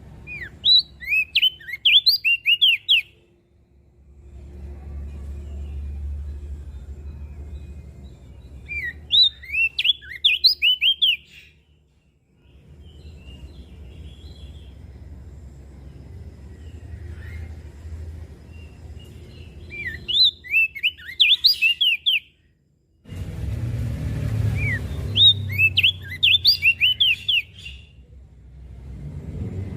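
Crested dark-eye (opior jambul) singing: bursts of rapid twittering notes, each phrase about two to three seconds long, repeated four times with pauses between, over a low background rumble.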